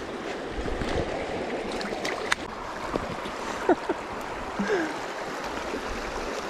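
Creek water running steadily over rocks, with a few light clicks and a couple of brief falling squeaks near the middle.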